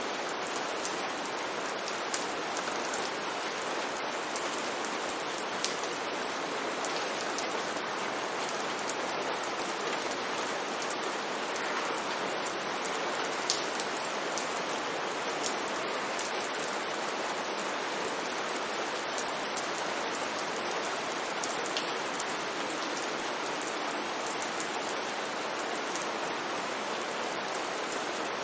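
Steady rain falling, an even hiss that holds level throughout, with a few sharper individual drop ticks here and there.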